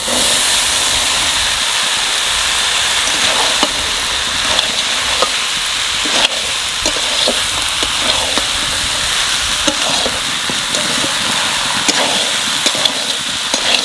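Boiled peas and cubed potatoes tipped into a hot wok of frying spice paste, setting off a loud, steady sizzle that starts suddenly. A spatula stirring the mix gives scattered clicks through the sizzle.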